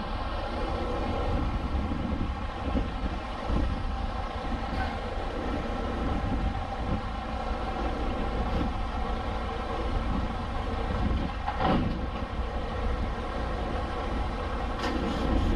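Diesel engine of a semi-truck tractor running at a steady low speed with a deep rumble as the truck is backed up slowly.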